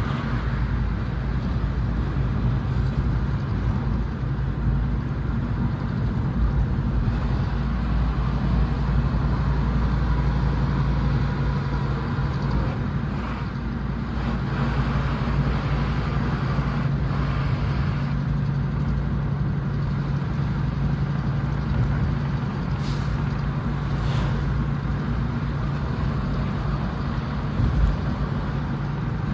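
Dump truck's diesel engine, fitted with a split exhaust manifold and a stack muffler, running steadily with a deep exhaust rumble. Two brief hisses come near the end.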